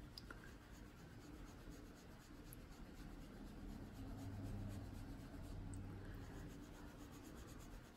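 Faint, repeated rubbing of an ink applicator on paper as ink is blended onto a colouring page.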